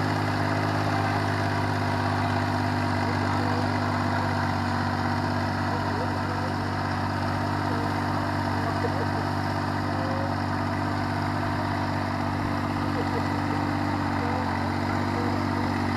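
Yanmar YM3000 tractor's diesel engine running steadily at an even speed.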